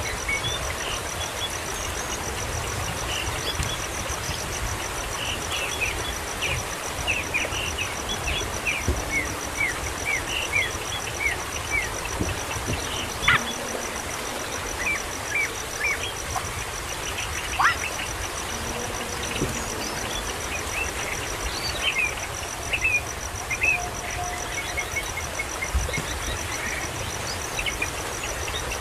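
Birds chirping: many short, falling chirps come in irregular runs. Behind them runs a steady, fast-pulsing insect trill and a low rumble.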